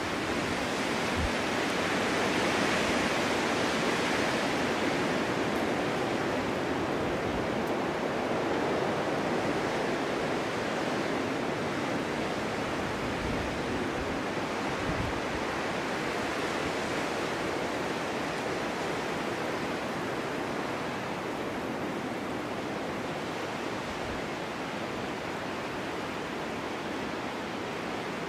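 Snowstorm wind blowing, a steady rushing that swells a few seconds in and slowly eases.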